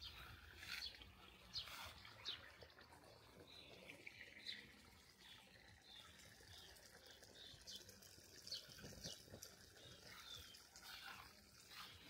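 Quiet garden ambience with faint, scattered short bird chirps.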